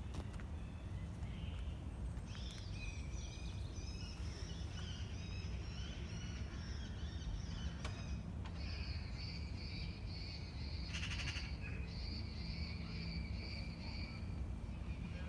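Wild birds singing, with overlapping chirping phrases that start about two seconds in and a brief rapid trill near the middle, over a steady low background rumble.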